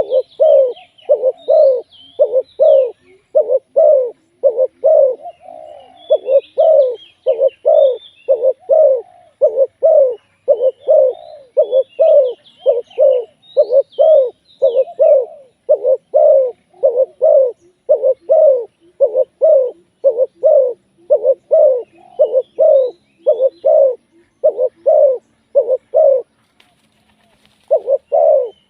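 Spotted dove cooing over and over, about two notes a second, with a brief pause near the end. Small birds chirp faintly in the background.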